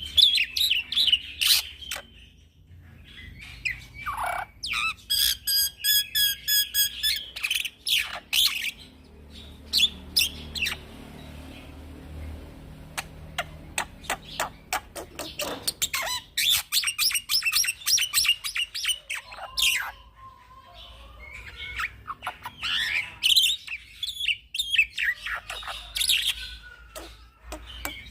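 Young black-winged myna (jalak putih) singing a long, varied song of chirps, whistles and fast trills, with some harsh squawky notes. The song comes in bursts separated by short pauses.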